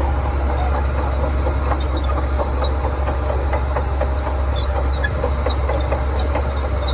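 Shantui DH17C2 crawler bulldozer's diesel engine running steadily with a deep hum, with light irregular clicks and rattles over it.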